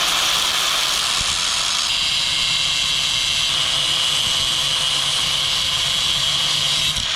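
Power tool cutting off a damaged stud on an exhaust manifold, running steadily with a high whine and stopping abruptly near the end.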